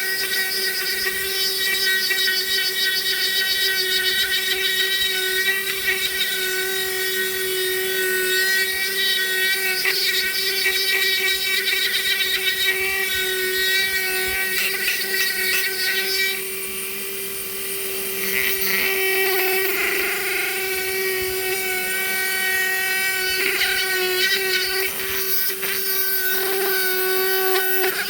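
Hand-held Dremel rotary tool running at a steady high speed, its bit grinding into hard wood, the grinding rising and falling as the bit works. The grinding eases for a moment a little past halfway, then picks up again.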